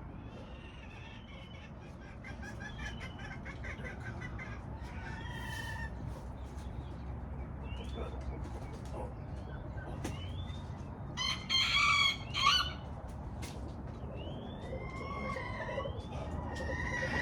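A rooster crows once, loudly, about eleven seconds in. Small birds chirp throughout, over a steady low background rumble.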